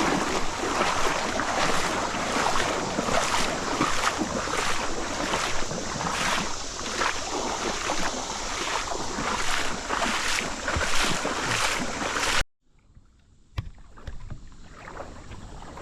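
Loud splashing, rushing creek water close to the microphone, with regular swishes about twice a second. It cuts off suddenly about twelve seconds in, leaving a quieter background.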